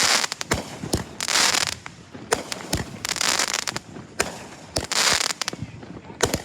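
Fireworks going off: a string of sharp bangs, with a hissing burst about every one and a half to two seconds.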